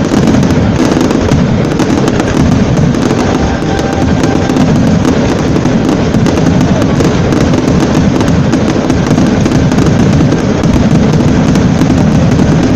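Aerial fireworks firing in a dense, continuous barrage at close range, with many shells bursting and crackling on top of one another without a break. This is the show's finale.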